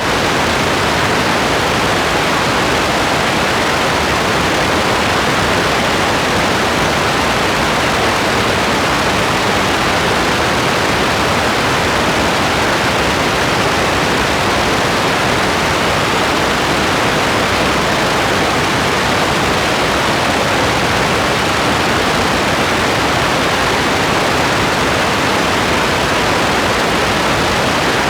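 Steady rain: an even, unchanging hiss.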